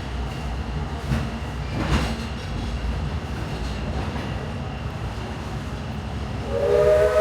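Steam train rolling along the rails, heard from a passenger car as a steady low rumble with a couple of faint clacks. Near the end the steam locomotive's whistle starts, a chord of several notes held steady.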